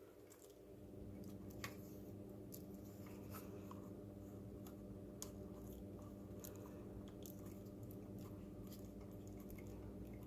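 Faint scattered clicks and small scrapes of plastic robot body parts and a cable being handled and pressed into place, over a steady low hum.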